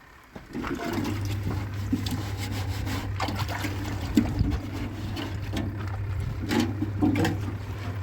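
Washing machine switching on about a second in and running with a steady motor hum while water churns and sloshes inside it.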